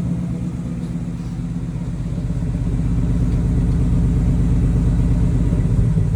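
Ford Mustang GT's 5.0 Coyote V8 idling steadily with a deep rumble through its exhaust, one side now fitted with an SR Performance axle-back. It gets a little louder about two seconds in.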